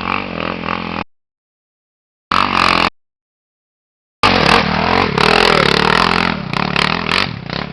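Motocross bike engine revving hard on a hill climb. The sound breaks off into dead silence twice in the first four seconds, then runs loud and unbroken, easing slightly near the end.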